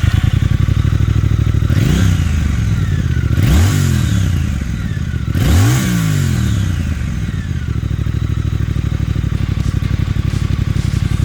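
2022 Triumph Speed Twin 1200's 1200cc liquid-cooled parallel-twin engine idling through its stock twin exhausts, quieter than aftermarket pipes. It is revved three times in the first six seconds, each blip rising and dropping back to a steady, pulsing idle.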